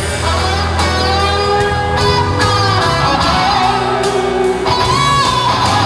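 Instrumental break of a country song playing from a recorded backing track, led by guitar over a steady bass.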